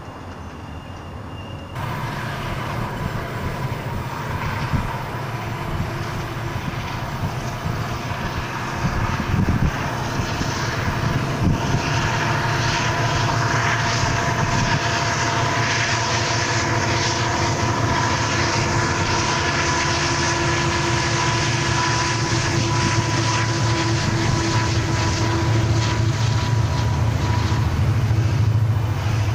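Diesel-hauled double-stack intermodal freight train passing: a steady rumble of locomotives and rolling cars, with a few steady ringing tones above it, growing somewhat louder near the end.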